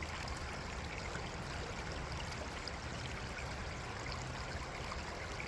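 River water flowing steadily, an even rushing with no separate splashes.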